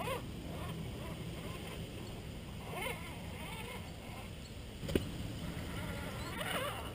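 A few short bird calls, about three seconds apart, over a steady low rumble, with one sharp knock about five seconds in.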